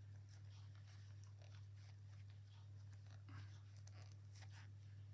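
Near silence: faint scattered clicks and rustles of knitting needles and yarn as stitches are worked, over a steady low hum.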